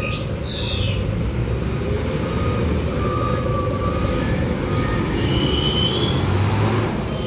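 Heavy truck engine running as it passes on the road, over a steady low traffic rumble.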